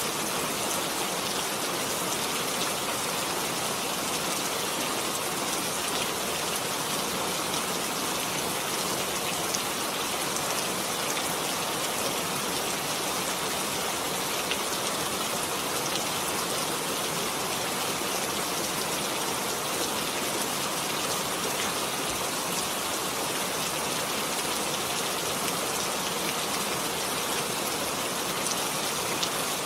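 Heavy rain falling steadily, an even hiss of many drops with faint individual drop ticks.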